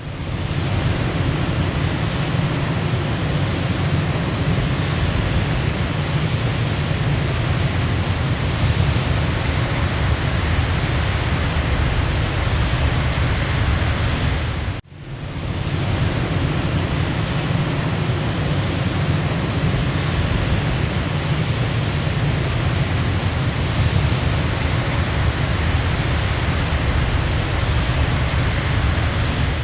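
Waterfall rushing steadily, a deep, even roar of falling water. About halfway through it drops out for an instant and swells back in.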